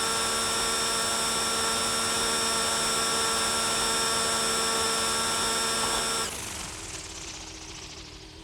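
Small electric RC helicopter's motor and rotor whining steadily at a high pitch. About six seconds in the power cuts and the whine falls away as the rotor spins down.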